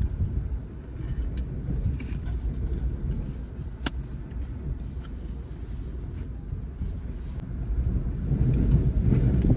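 Wind buffeting the microphone: a steady low rumble, with a few faint clicks and one sharp tick about four seconds in.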